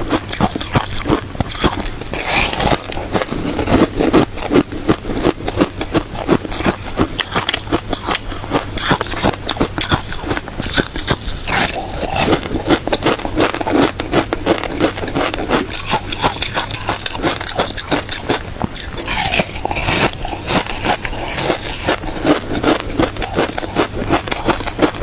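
A person chewing crunchy shaved matcha ice close to the microphone: a dense, continuous run of crisp crunches and crackles, several a second.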